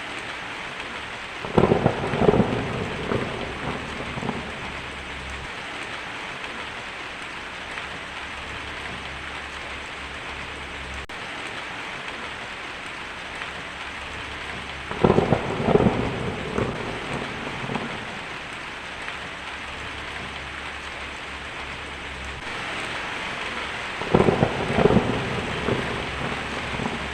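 Heavy rain drumming steadily on a tin roof, with three rolls of thunder, about a second and a half in, about 15 seconds in and about 24 seconds in, each a few seconds long.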